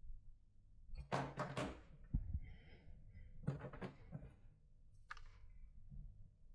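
A series of knocks and clunks from objects being handled, in small clusters spread over several seconds, with a faint low hum underneath.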